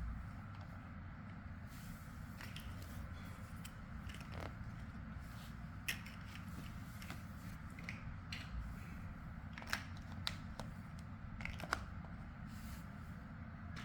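Plastic building blocks clicking and knocking as pieces are handled and pressed together, with a few sharper clicks standing out, over a steady low hum.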